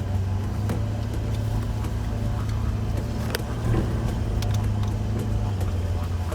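Four-wheel-drive car's engine running steadily under load as it climbs a rough dirt track, with scattered light clicks and knocks.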